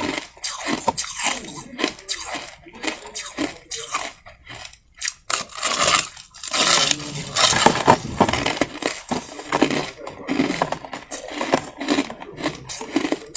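Soft white crushed ice being bitten and chewed: dense, irregular crunching, with a brief pause about four and a half seconds in.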